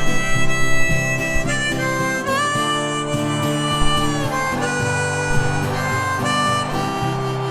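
Harmonica playing a melody line over strummed acoustic guitar, in a folk song's instrumental introduction.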